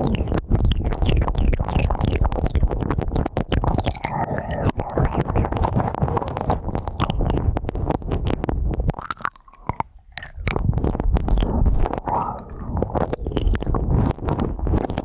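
Ear-cleaning ASMR: dense, crunchy scratching and scraping close on the microphone, as of an ear pick working in an ear, with a low rumble of rubbing underneath. It briefly eases off about two thirds of the way through, then resumes.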